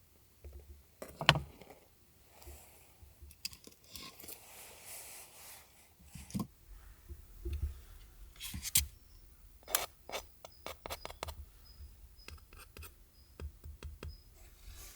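Close handling noises in a small space: a sharp knock about a second in, a stretch of rustling, then a quick run of crisp clicks and scrapes as small objects are moved and handled.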